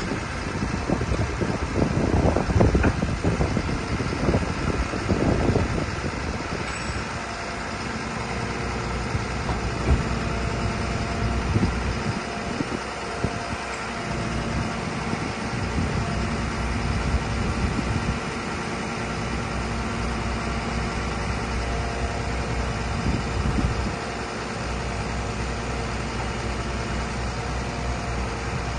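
Mercedes Axor 1823 truck's diesel engine idling steadily, with uneven louder rumbling over it in the first six seconds or so.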